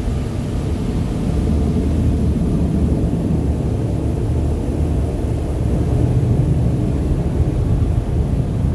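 Touchless automatic car wash machinery working around a van, heard from inside the cabin as a steady low rumble.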